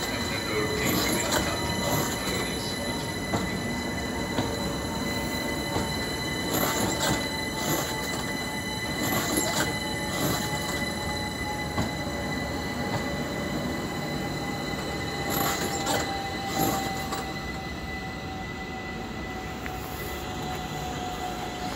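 London Overground Class 378 electric train running past and away along the track, with wheel and rail noise, a steady high squeal, and a whine that slowly drops in pitch. Sharp clicks of the wheels over rail joints and points come every second or two, then stop about three-quarters of the way through.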